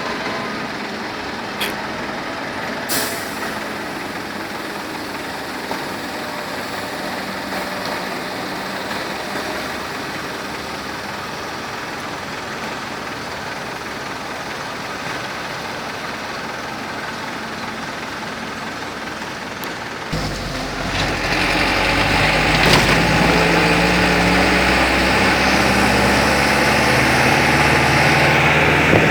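Road-vehicle noise in the rain: a steady hiss of traffic on a wet road, with a few faint clicks in the first seconds. About 20 seconds in it turns louder, with a low engine hum and a stronger hiss, as a heavy vehicle runs close by or the vehicle speeds up.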